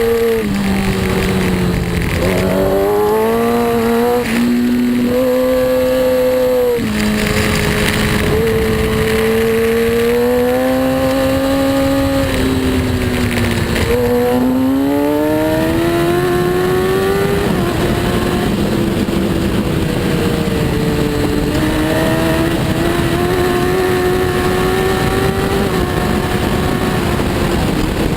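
Racing superbike's engine under hard throttle. Its pitch climbs and drops sharply several times in the first half as it shifts gear, then holds fairly steady with small rises and falls, over a constant rushing noise.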